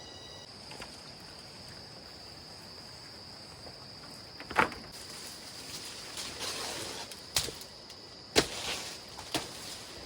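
Insects, likely crickets or cicadas, droning steadily at a high pitch, with four sharp knocks in the second half.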